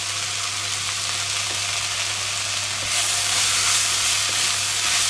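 Diced onions and peppers sizzling as they fry in a pot with tomato paste just added. The sizzle grows louder about three seconds in as a wooden spatula stirs them.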